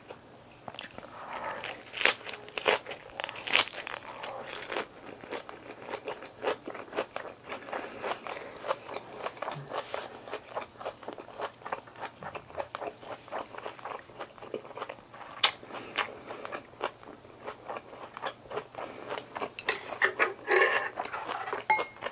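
A person eating close to the microphone: a dense run of crisp crunching bites and chewing, with louder spells of crunching a few seconds in and near the end.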